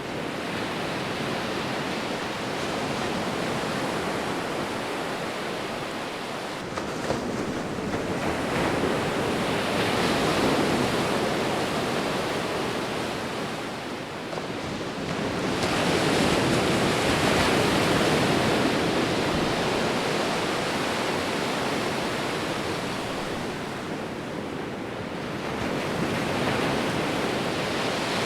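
Sea waves rolling in and washing on the shore, a continuous rush of surf that swells and eases, loudest about ten seconds in and again from about sixteen to nineteen seconds.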